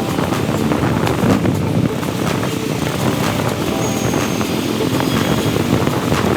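Royal Enfield Classic 350's single-cylinder engine running steadily while the motorcycle is ridden.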